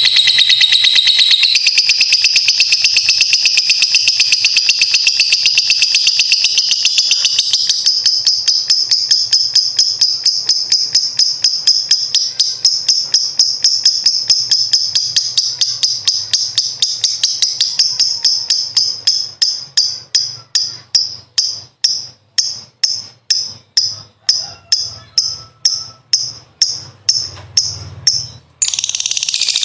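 Lovebird giving a long ngekek: a loud, high, rapid chattering trill that slows in its last ten seconds into separate pulses about two a second. It breaks off briefly near the end and starts again.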